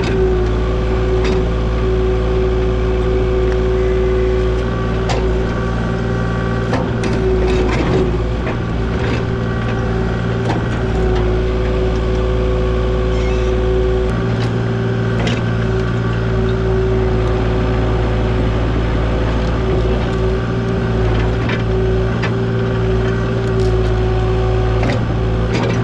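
Kubota KX040 mini excavator's diesel engine running under load, with a hydraulic whine that drops away and comes back as the controls are worked. Scattered sharp knocks and snaps over it.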